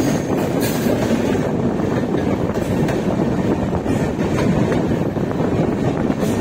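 Shatabdi Express passenger train running along the track: a steady rumble of wheels on rail, with a few faint clacks.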